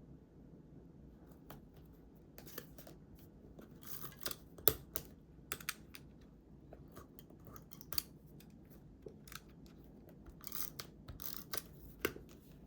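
Scissors cutting paper in irregular short snips, with paper rustling between them; the sharpest snip comes a little under five seconds in.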